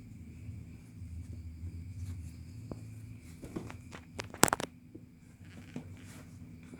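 Handling of a hand-woven cotton cloth: soft rustling and a few small knocks, with a sharper crackle of clicks about four and a half seconds in, over a low steady hum.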